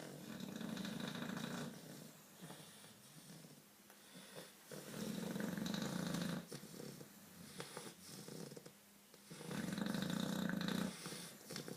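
English bulldog snoring, three long snores about four and a half seconds apart, with quieter breathing between them.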